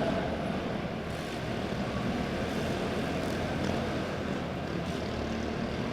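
Quarter midget race cars' small single-cylinder four-stroke engines running at speed around a dirt oval, a steady blended engine drone with no break.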